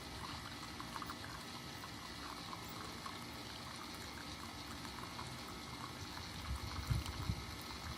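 Keurig K-Mini single-serve coffee maker brewing: a steady watery hiss with faint gurgles and pops as it heats and pushes water through the pod. A few low knocks come near the end.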